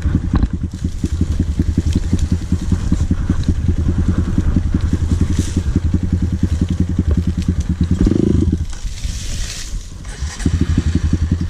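Dirt bike engine running with a steady, even pulse while riding. About eight seconds in, a short surge is followed by the engine note dropping away for a second or two, and then it picks up again.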